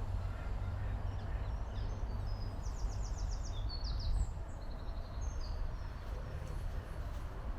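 A songbird sings a short phrase of quick, high repeated notes a few seconds in, over a steady low rumble of outdoor background noise.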